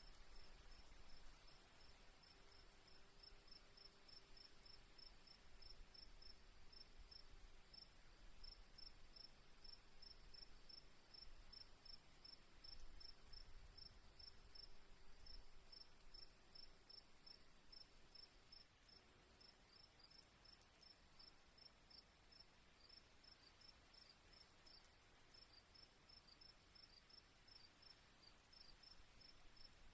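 Faint crickets: a steady high trill, with a cricket chirping in quick regular pulses, about four a second.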